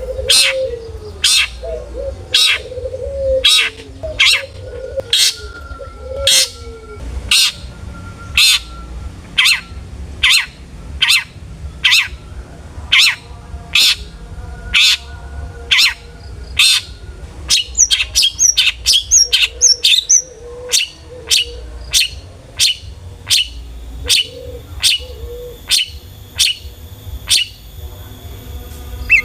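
Long-tailed shrike singing: a long series of short calls repeated about one and a half times a second, breaking into a quicker run of varied, higher notes a little past halfway, then going back to the steady series. Fainter low wavering notes sound underneath early on and again later, over a low hum.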